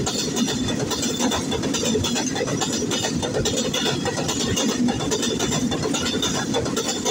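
Freight train's covered goods wagons rolling past close by: steel wheels on the rails making a steady rattling clatter full of rapid clicks.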